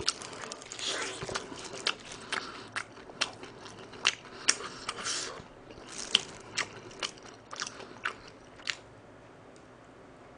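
Close-miked biting and chewing of crispy soy-glazed fried chicken: a run of irregular crackling crunches from the crust and wet chewing. The crunches stop about nine seconds in.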